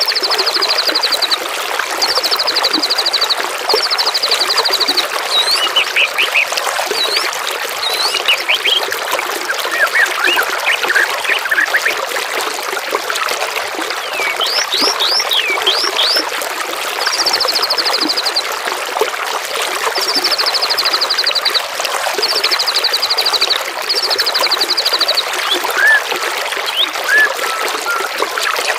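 Trickling, flowing water with songbirds over it: a high trill of about a second, repeated several times, with short whistled chirps and glides between.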